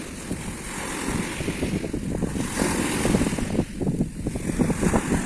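Wind buffeting the microphone, with the hiss of sea waves on the shore swelling and fading behind it.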